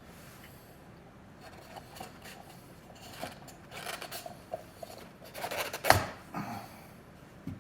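Hand work on an oil filter housing and its parts: scraping, rubbing and light clicks, with a sharp knock about six seconds in.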